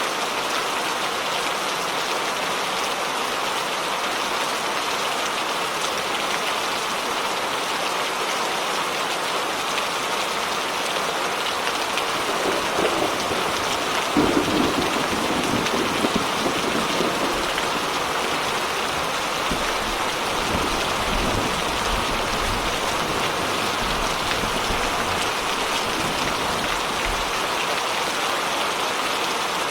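Steady rain falling. About halfway through, a thunderclap swells up and then rolls on as a deep rumble for several seconds.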